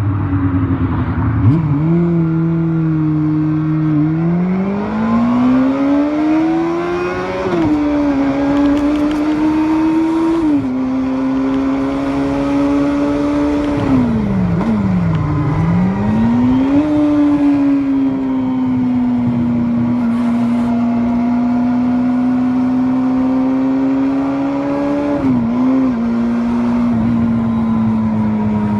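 Water-cooled four-cylinder 250 cc engine of a first-generation Kawasaki Balius motorcycle running. Its pitch climbs and steps down a couple of times, dips sharply and rises again near the middle, then holds steady for about ten seconds.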